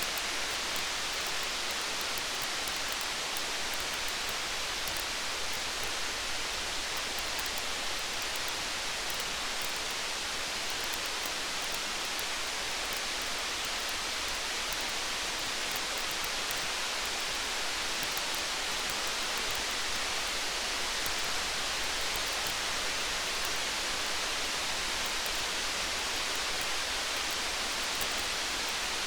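Steady rain falling, with faint, irregular crackles of a wood campfire on top.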